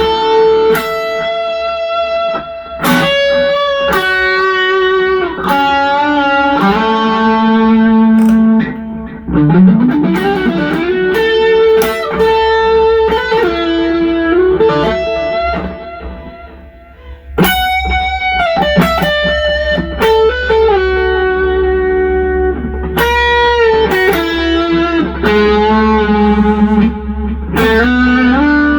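Electric guitar played through an MXR Super Badass Distortion pedal: sustained distorted notes and chords changing every second or two, with a slide up in pitch about ten seconds in. The notes die away about sixteen seconds in, then a sharp new attack starts the next phrase.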